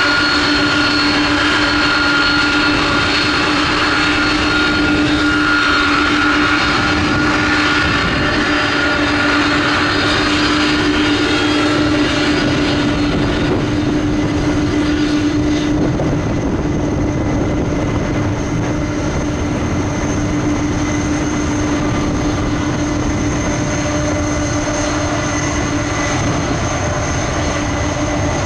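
Boeing 767-300F jet engines running steadily at taxi power: a continuous hum with whining tones. About halfway through, the upper hiss fades and a higher, thinner whine comes in.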